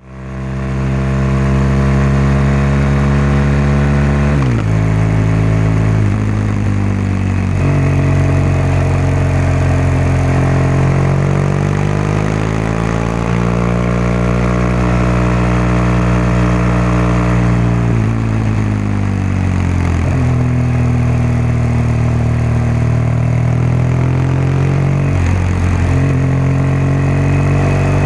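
BMW R1200GS boxer-twin engine and exhaust heard while riding, its note rising and falling with throttle and gear changes: a sharp drop about four seconds in, a long climb and fall in the middle, and a brief dip near the end.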